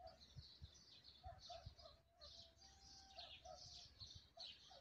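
Faint birdsong: several small birds chirping and twittering in quick high notes, with a lower held whistled note near the middle.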